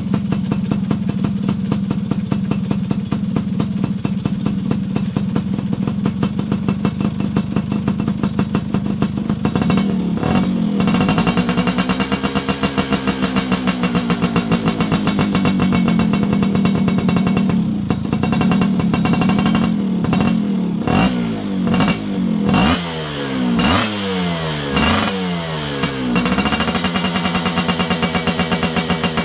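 Yamaha F1ZR's two-stroke single-cylinder engine running through an aftermarket racing exhaust. It holds a steady note for about ten seconds, is then revved up and back down slowly, and near the end is blipped repeatedly with short throttle jabs.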